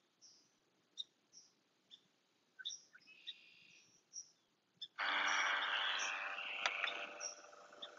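Small birds chirping with short, high calls. About five seconds in, a louder steady noise with a hum starts suddenly and dies away about two and a half seconds later.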